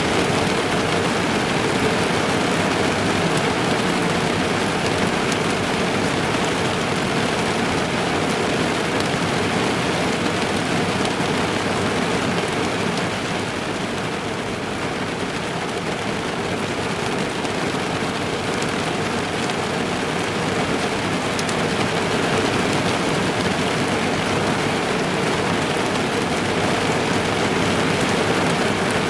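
Heavy rain drumming on the roof and windows of a car, heard from inside the cabin: a dense, steady patter that eases slightly about halfway through.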